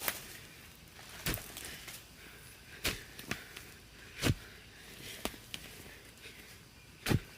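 A series of sharp knocks, six strokes at uneven intervals, over faint background noise.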